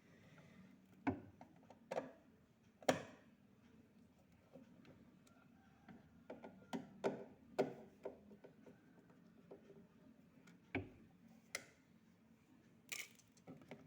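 Irregular sharp clicks and knocks, as of tools and parts being handled during refrigerator repair work, a loose cluster of them about six to eight seconds in.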